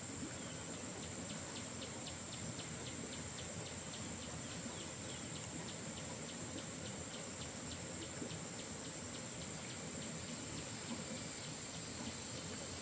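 A steady rushing noise like running water, with a constant high-pitched hum above it and a run of quick, even ticks, about three a second, that stops near the end.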